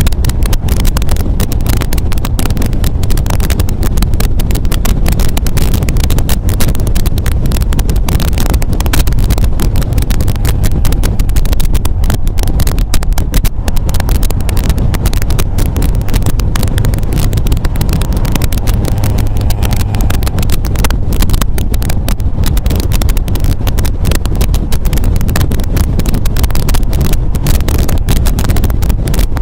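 MGA roadster's four-cylinder engine running steadily under way, a constant low rumble mixed with heavy wind buffeting on the microphone.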